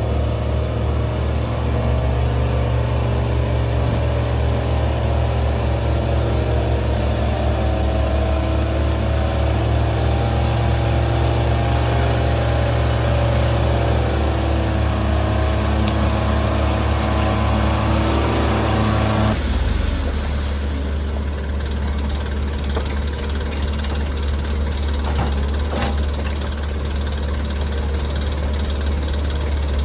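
Heavy diesel engines of earthmoving machines running hard, a loud steady low drone. About two-thirds of the way in the engine eases off sharply and runs on at a lower, quieter note.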